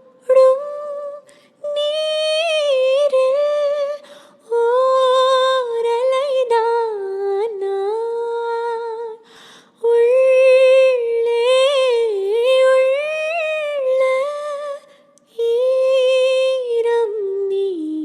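A woman humming a slow melody, unaccompanied, in sustained phrases of a few seconds each with short breaths between them, the held notes wavering with vibrato.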